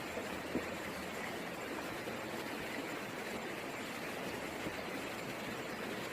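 Heavy rain falling steadily as an even hiss, with one short tap about half a second in.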